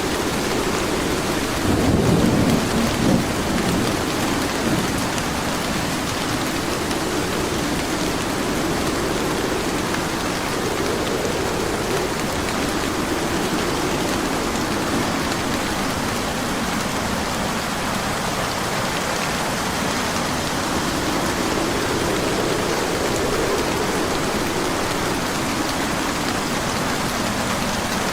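Steady heavy rain with rolling thunder: a louder thunder rumble about two seconds in, then slow, softer rumbles swelling and fading under the rain.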